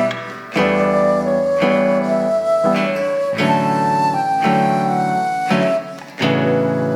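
Live band music: guitar and piano striking a new chord about every second, with a held melody line above them. The music thins out briefly just after the start and again about six seconds in.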